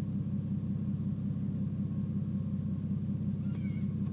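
Ford Falcon XR6 Turbo's turbocharged inline-six running steadily at an even, unchanging engine speed.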